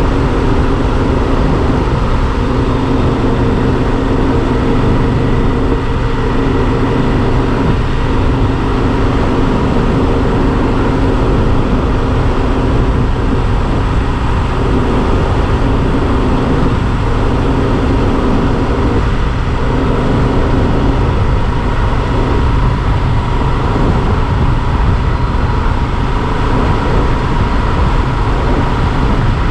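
Yamaha Super Ténéré XT1200 motorcycle riding at a steady cruise: its parallel-twin engine runs evenly under heavy wind rumble, with a steady high whine.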